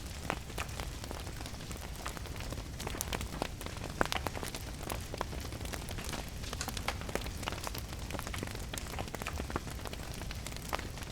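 Steady rain with a fireplace fire crackling over it: frequent sharp pops scattered irregularly, one louder pop about four seconds in.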